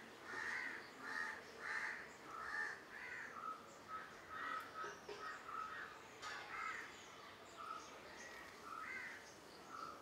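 Birds calling outdoors: a run of repeated calls about two a second, giving way to shorter, sparser notes from about the middle on.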